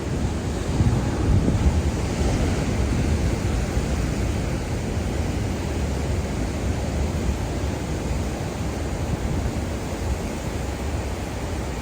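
Ocean surf breaking and washing on a beach, with wind buffeting the microphone. The surf swells about a second in, then settles into a steady wash.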